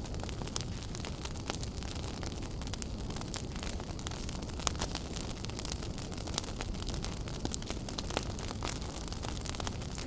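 Wood fire crackling in a fireplace: a steady low rumble of burning with many sharp pops and snaps scattered throughout, a couple of louder pops a little before the middle.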